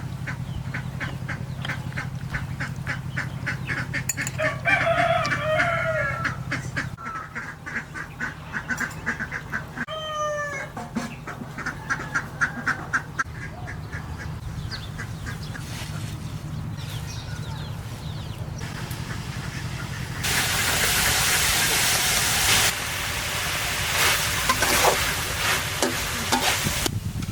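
Farmyard poultry calling, with a rooster crowing once about five seconds in. A loud steady rushing noise takes over for the last several seconds.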